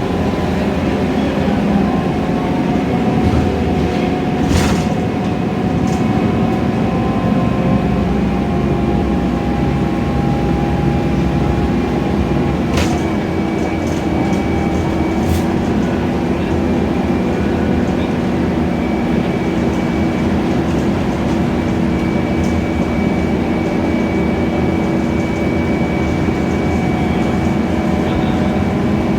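Scania K320iA CNG city bus heard from inside while under way: a steady engine and drivetrain hum with a whine whose pitch drifts slowly. A few sharp clicks or rattles break in, about 5, 13 and 15 seconds in.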